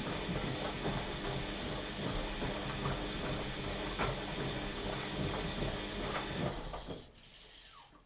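Washing machine running: the drum turning with a steady motor hum and rattling clicks and knocks. About seven seconds in the motor cuts off and winds down with a short falling whine, fading to near silence.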